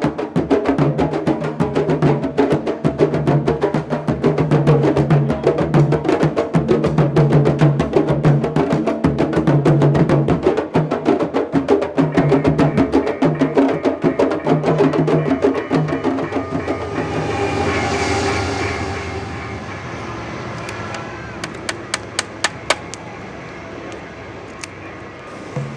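Candombe drums played with hand and stick in a dense, fast rhythm with pulsing low drum tones, fading out after about fifteen seconds. A brief hissing swell follows, then scattered sharp clicks.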